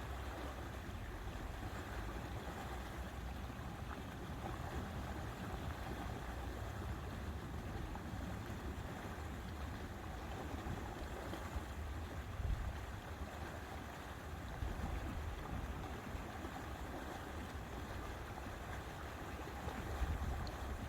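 Lake water lapping with wind rumbling on the microphone, a steady wash with a few stronger gusts, one about twelve seconds in and one near the end.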